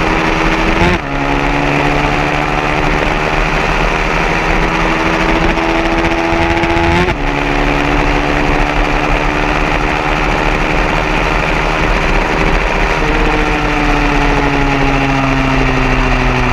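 150cc racing motorcycle engine under hard acceleration, its pitch climbing steadily and dropping abruptly at two gear shifts, about a second in and about seven seconds in. A loud rushing noise runs underneath, and near the end the engine note begins to fall.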